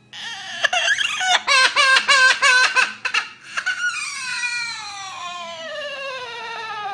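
A bird mimicking a crying baby: a run of quick sobbing cries, then one long wail that slides steadily down in pitch.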